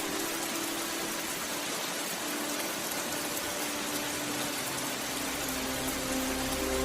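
Steady rain hiss, with soft background music of long held notes underneath; a low note comes in near the end.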